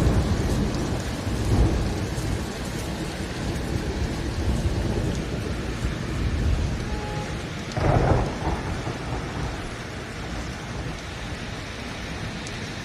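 Steady rain falling during a summer thunderstorm, with rolling thunder rumbling underneath. A louder peal of thunder comes about eight seconds in.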